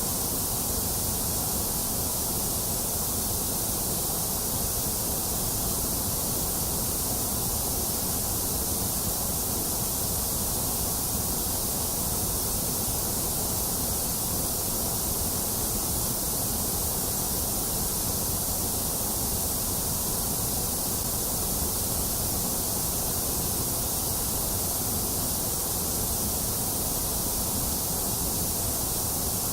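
Steady white noise: an even, unbroken hiss with no changes, brightest in the high treble and a little thinner in the upper middle.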